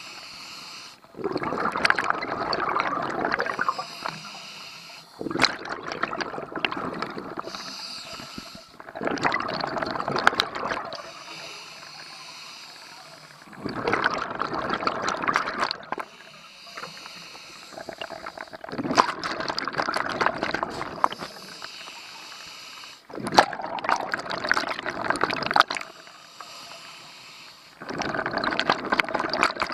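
Scuba diver breathing through a regulator underwater: seven bursts of exhaled bubbles, about one every four to five seconds and each lasting two to three seconds, with quieter stretches between.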